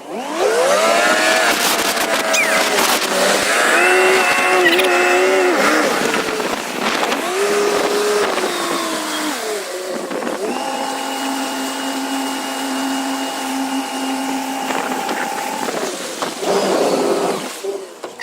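Tow boat's engine throttling up with a rising pitch, its speed wavering up and down, then holding a steady pitch for several seconds before dropping away near the end.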